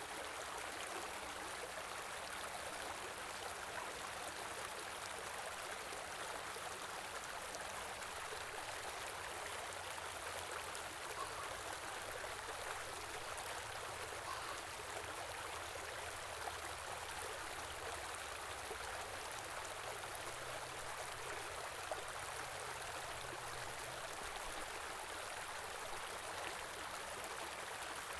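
A stream of running water, a steady, even rush that does not change.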